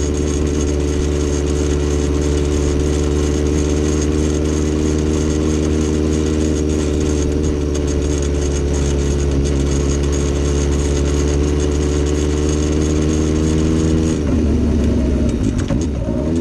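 Vehicle engine running at a steady speed, with a rattle that the owner is trying to diagnose. About fourteen seconds in, the engine note wavers and shifts.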